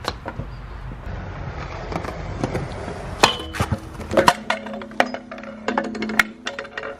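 Scooter clattering on skatepark metal: a run of sharp metallic clanks and clicks, several of them ringing briefly, starting about three seconds in and coming thick and fast in the second half.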